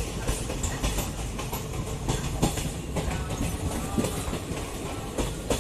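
Train running, heard from inside a coach: a steady rumble of wheels on rail with irregular clicks and clatter as the wheels cross rail joints and points.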